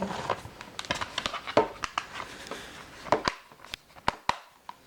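Handling noise from a plastic DVD case: a run of irregular clicks and taps as it is held and turned over.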